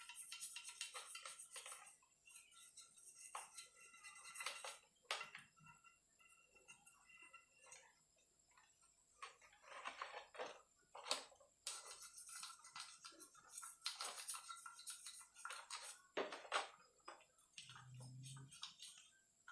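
Brush scrubbing and swishing over a motorcycle crankcase half in a bath of petrol, in irregular strokes with light clinks of metal.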